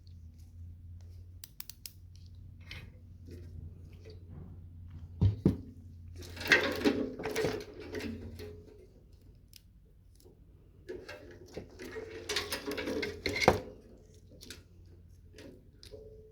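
Hand tools working on a microwave oven's metal parts: scattered clicks, with two louder spells of scraping and rattling metal and a few sharp knocks.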